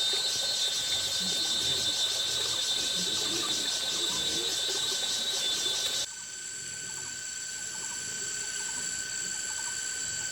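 Crickets trilling steadily at several high pitches with a fast, even pulse. About six seconds in, the lower background noise drops away abruptly while the trilling carries on.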